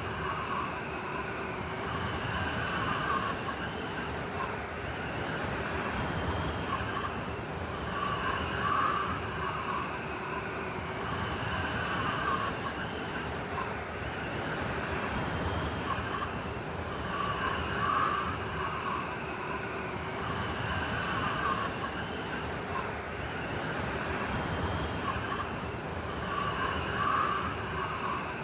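Blizzard wind blowing steadily, with howling, wavering whistle tones over the rush, in a pattern that repeats about every nine seconds.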